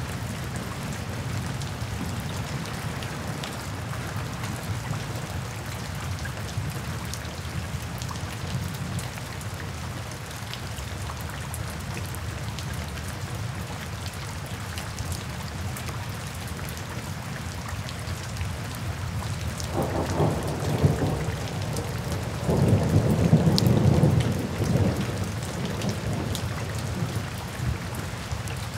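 Steady rain falling and splashing on wet paving. About twenty seconds in, low rolls of thunder rumble twice; the second is longer and louder and fades after a few seconds.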